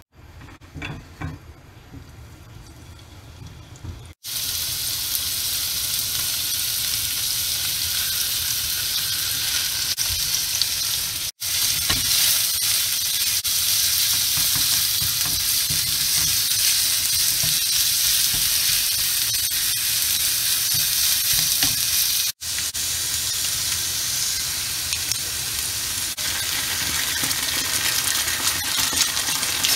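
Minced meat frying in a hot nonstick pan with minced garlic, sizzling steadily while a wooden spatula stirs and breaks it up. The loud sizzle starts about four seconds in, after a quieter stretch with a few light clicks.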